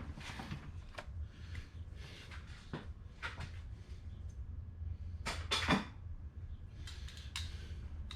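Scattered light clicks and knocks of tools and parts being handled, with a louder clatter about five and a half seconds in, over a low steady hum.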